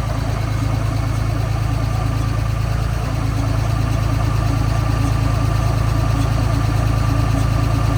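MerCruiser 5.7L V8 being cranked on its starter, turning over with an even pulsing beat but not catching.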